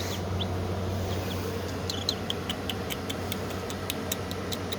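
Baby chicks peeping: a scatter of short, high cheeps and ticks over a steady low hum.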